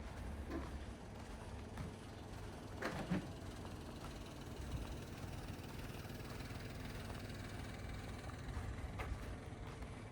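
Quiet street ambience: a steady low rumble with a few soft clicks, and one short knock about three seconds in.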